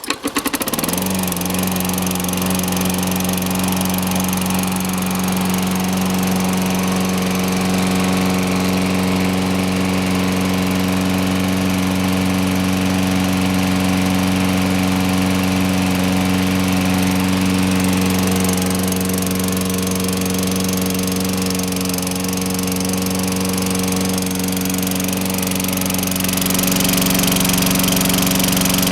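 Toro Personal Pace Recycler lawn mower's 6.5 HP Tecumseh single-cylinder four-stroke engine catching on the pull and running up to speed within the first second, then running steadily. The sound shifts slightly and gets a little louder near the end.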